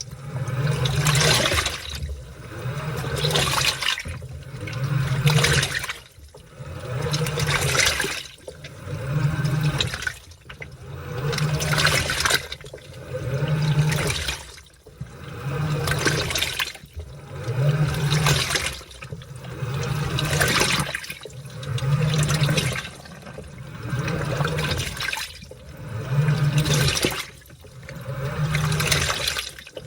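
Washing machine in its wash cycle, churning laundry through water in a regular rhythm: each swell of sloshing water with a low motor hum comes about once every two seconds.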